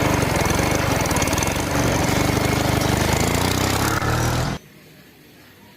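Small toy diesel engine of a homemade water pump running fast with a rapid rattling beat, cutting off suddenly about four and a half seconds in.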